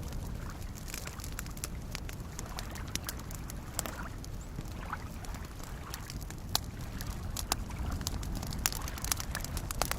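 Campfire crackling with irregular sharp pops, a few louder ones in the second half, over a steady low wash of small waves lapping at a lakeshore.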